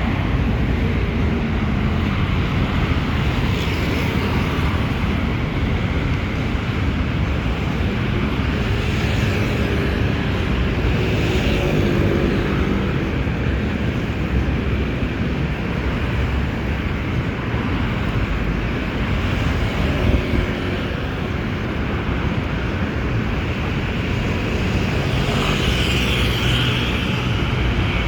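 Railway train rumbling steadily, with a brief knock about twenty seconds in.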